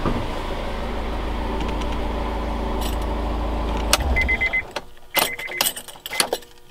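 Honda S2000's four-cylinder engine idling steadily, heard from inside the cabin, then switched off about four seconds in. After it cuts out, keys jangle at the ignition and the car gives a few short electronic beeps.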